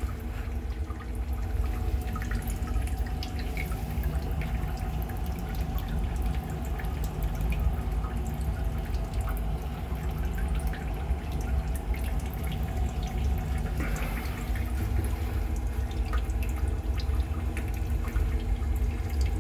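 Water running and dripping from a heating-manifold drain valve while air is bled from a gas boiler's heating circuit, with small scattered splashes. A steady low hum with several steady tones runs underneath.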